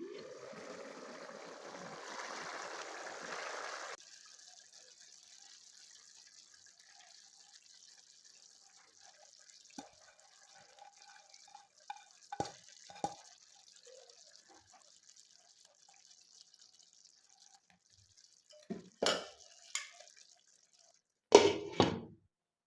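Liquid pouring into a cooking pot for about four seconds, stopping abruptly. Faint small clicks follow, then a few sharp knocks of kitchenware near the end.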